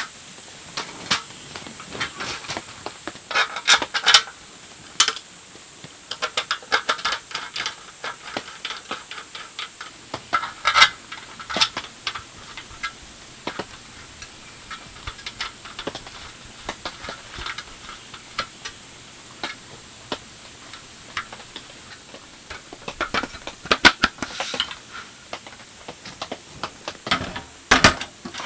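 Cookware and utensils clinking and knocking as they are handled, in scattered clusters of short clicks, over a steady hiss of rain.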